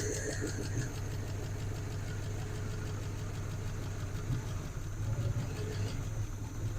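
Engine of a 1970s Chevrolet C30 square-body dump truck idling steadily, freshly started on fuel poured in by hand.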